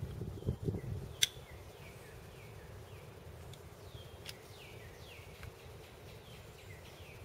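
Wild birds calling in the woods: a run of short, downward-sliding chirps repeating about every half second. A single sharp click about a second in, with a few soft low sounds just before it.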